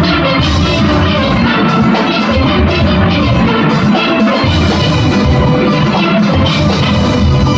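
Steelpan orchestra playing: many steel pans sounding a fast melody and chords over a drum-kit and percussion rhythm section.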